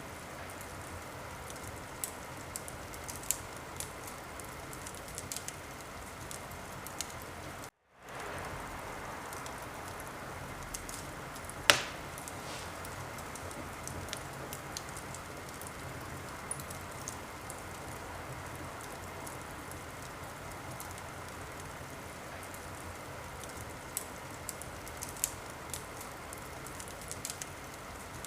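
Wood fire burning in a fireplace: a steady hiss with scattered small crackles and one loud pop about twelve seconds in. The sound cuts out for a split second around eight seconds in.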